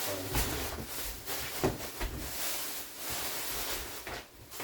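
Rustling and light knocks of things being handled in a kitchen, with one sharper knock about one and a half seconds in.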